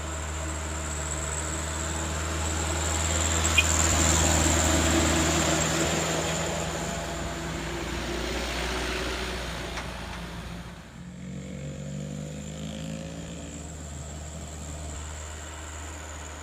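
Heavy truck or bus engine working hard on a steep climb as it passes close, growing louder to a peak about four seconds in and then fading. Around eleven seconds a second vehicle's engine comes in, its pitch sliding as it changes speed.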